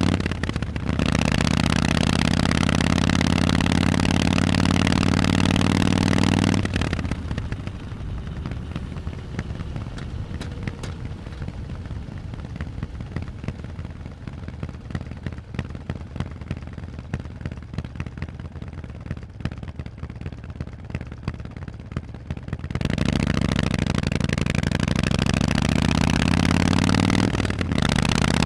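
Harley-Davidson Forty-Eight's air-cooled 1200 cc V-twin running loud through Vance & Hines exhausts under throttle, with a short break in the note about half a second in. About six seconds in it falls much quieter for about sixteen seconds, a rougher rumble full of quick crackles. It then comes back loud under throttle with another brief break near the end.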